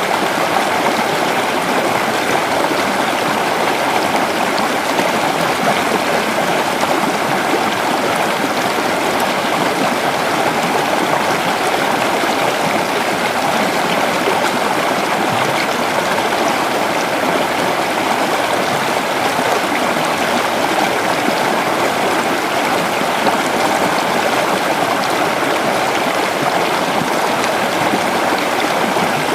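Creek water flowing over rocks: a steady, unbroken rush and babble.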